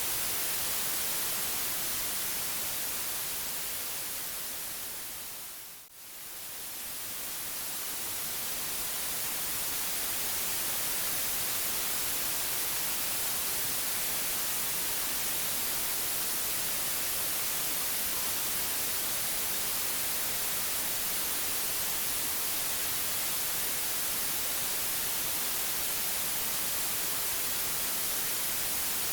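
Steady white noise hiss, strongest in the high range. It fades down over a few seconds to a brief near-drop-out about six seconds in, then swells back up to full level and holds steady.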